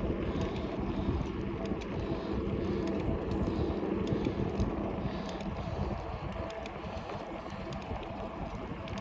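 Steady riding noise from a fat-tire e-bike on a paved trail: wind rumbling on the microphone and tyres rolling, with a faint steady hum underneath.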